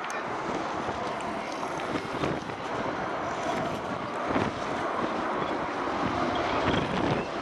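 Strong wind blowing across the microphone: a steady rushing noise that swells and dips without any clear pitch.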